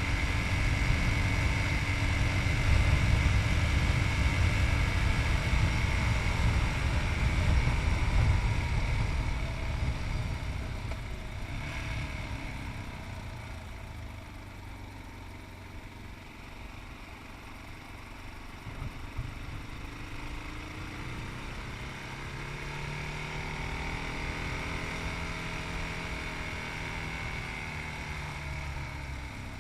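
Yamaha MT-03's 660cc single-cylinder engine running while riding, with wind rushing on the microphone. About a third of the way through, the wind and engine noise fall away as the bike slows. Near the end the engine note rises and falls.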